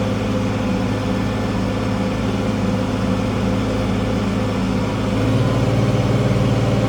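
International 1566 tractor's diesel engine running steadily while pulling a field cultivator. About five seconds in, the engine note rises and gets a little louder.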